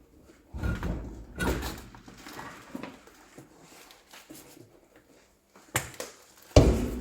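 Heavy metal knocks and clanks from working on a tractor's rear wheels, four main hits with short ringing tails. The loudest comes near the end, with lighter clatter in between.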